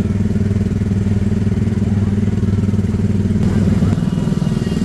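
Small petrol engine of an Autopia ride car running steadily as the car drives along the guided track.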